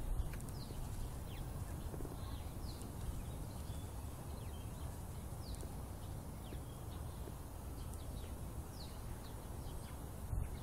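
Scattered short, high chirps from small birds, each a quick downward slide, coming irregularly about once a second over a steady low outdoor rumble.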